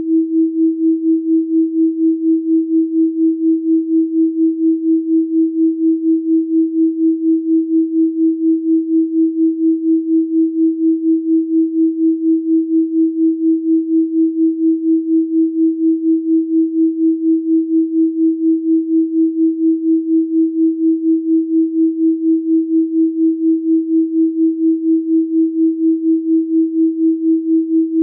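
Pure 324 Hz sine tone, held steady at one pitch, with a regular pulsing in loudness a few times a second.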